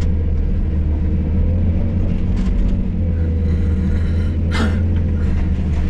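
Hydraulic excavator's diesel engine running steadily under work, with a steady whine over the low drone. A brief scraping burst sounds about four and a half seconds in.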